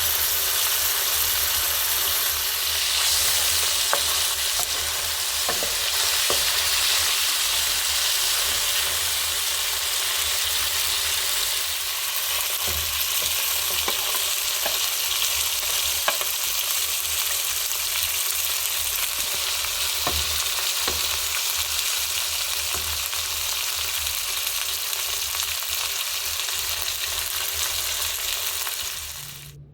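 Food frying in hot oil in a pot over an open wood fire: a steady sizzle with scattered sharp pops, cutting off suddenly near the end.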